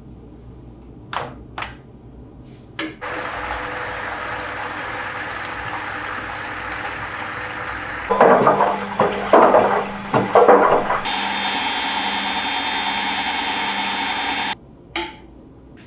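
Front-loading washing machine running with water: a few clicks, then a steady rush of water, loud sloshing surges, and a steady pump-like hum that cuts off suddenly near the end.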